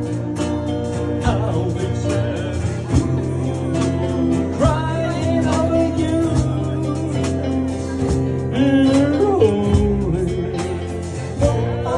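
Live rock and roll band playing with a steady beat, and a voice singing from about four seconds in.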